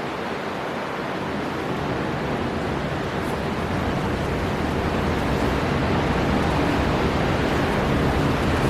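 Storm wind blowing hard over sea surf, a continuous rushing noise that slowly grows louder.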